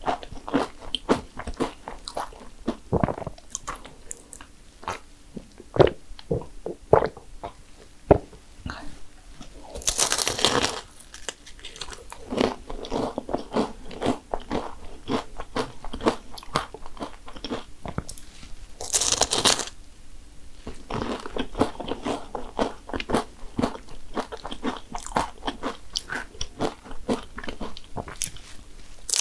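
Close-miked biting and chewing of crisp fried cannoli shells: many sharp crunches, with two longer, noisier bursts of about a second each, about a third and two-thirds of the way through.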